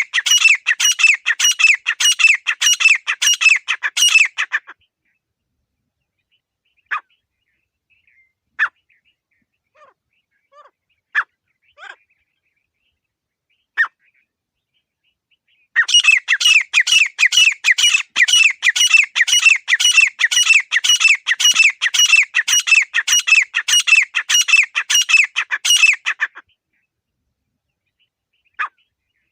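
Grey francolin (desi teetar) calling: long runs of rapid, shrill, repeated notes, one at the start and a longer one from about the middle, with a few single short notes between them and near the end.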